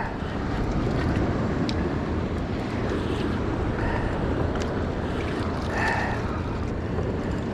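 Wind buffeting the microphone over the wash of sea water around a small boat: a steady rushing noise.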